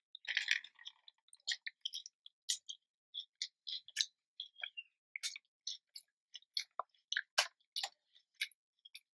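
A person biting into a taco and chewing close to the microphone. There is a louder bite about half a second in, then short smacking chews and clicks at irregular intervals, a few a second.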